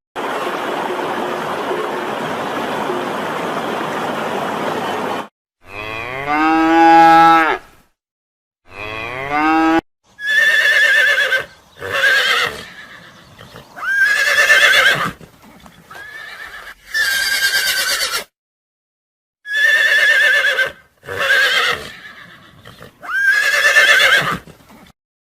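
Cattle mooing: a series of separate calls, each about a second long, some with a rising pitch. A steady hissing noise fills the first five seconds.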